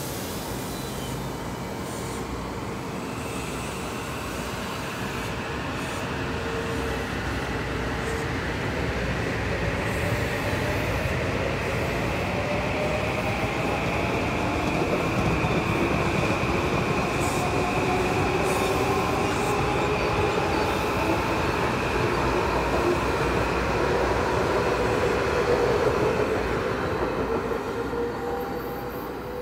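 Metro-North M8 electric multiple-unit train running past on the tracks at a station: steady wheel-and-rail rumble with an electric whine that glides in pitch and a steady high wheel squeal. It grows louder as more of the train draws near, loudest a few seconds before the end, then eases off.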